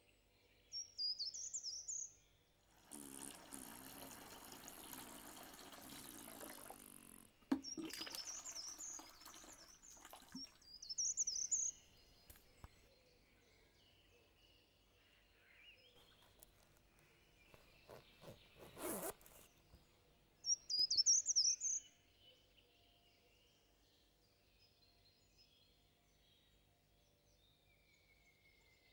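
Small birds chirping in short, high, trilling phrases, four or five times, over a quiet woodland background. About three seconds in comes a few seconds of steady hissing noise, and there are a few brief rustles and knocks in between.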